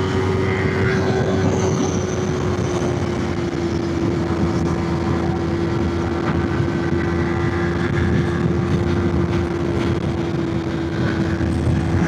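Motorcycle engine running at steady revs while being ridden, with wind rush over the microphone; the engine note eases slightly a few seconds in and then holds level.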